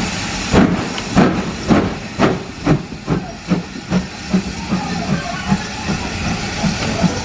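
Steam locomotive exhaust beats quickening as it gets under way, from under two a second to about three a second, over a steady hiss of steam. The locomotive is Ivatt Class 2MT 41241.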